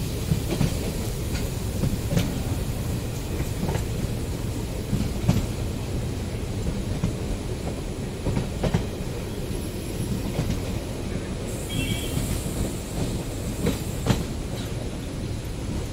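Passenger train running along the track, heard from an open coach doorway: a steady rumble with irregular clacks of the wheels passing over rail joints.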